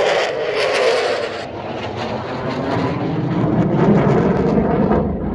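F-16 fighter jet engine noise as the jet flies a display pass: a loud, continuous rushing that shifts in pitch and swells toward the latter part.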